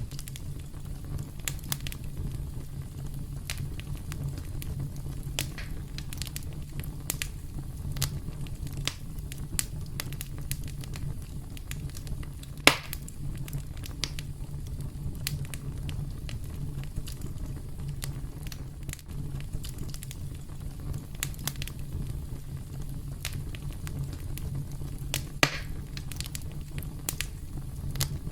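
Campfire burning: a steady low rumble of flames with frequent sharp crackles and pops of burning wood, two of them louder, about twelve seconds in and again near the end.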